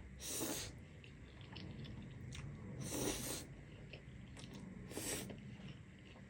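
Close-miked mukbang eating: chewing with small mouth clicks, and three short, louder hissy sounds about half a second in, at three seconds and at about five seconds.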